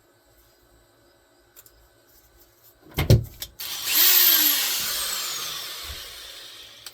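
A thump about three seconds in, then a corded Black & Decker electric drill run in one short burst. Its motor whine falls steadily in pitch and fades as the drill winds down.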